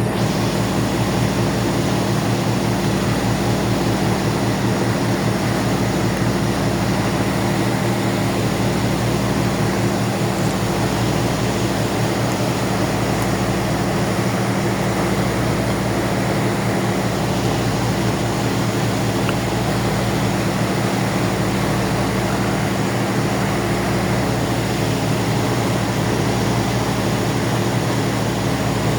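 Ferry's engines running, a steady low drone with a constant rushing noise over it.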